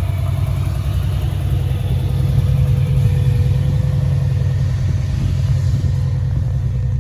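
Subaru SVX 3.3-litre flat-six engine in a 1982 Volkswagen Transporter camper, running steadily with a deep low rumble and a faint steady tone above it.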